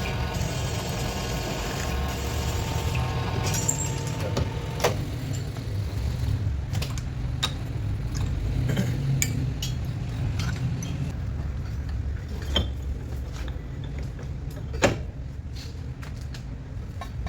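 Machinery running with a steady low rumble. A higher humming tone stops about three and a half seconds in, and scattered sharp metallic clinks follow.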